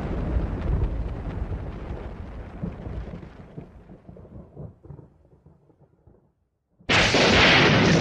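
Thunder: a low rumble dies away over about six seconds, then after a brief silence a new loud thunderclap breaks in suddenly near the end.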